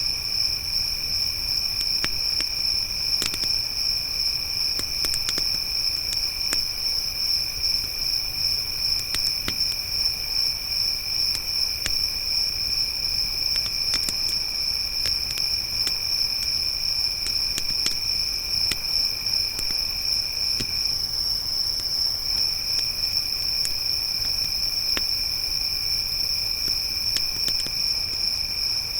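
A chorus of crickets chirping in a steady high trill, with a second, lower insect trill that stops for about a second partway through. Scattered crackles and pops of a burning campfire sound throughout.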